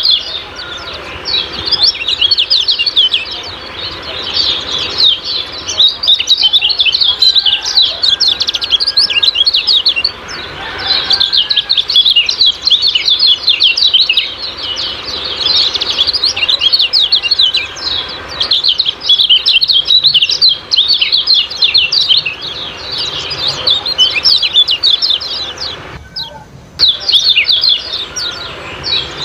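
Lemon-bellied white-eye (kecial kuning) giving its 'ciak-ciak' call: fast, high, chattering chirps in dense runs, broken by a few short pauses.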